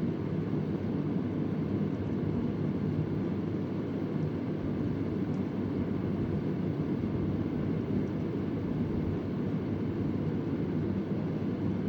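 Vintage Convair oscillating electric fan running with a steady, low rush of moving air. A faint tick sounds now and then in the background.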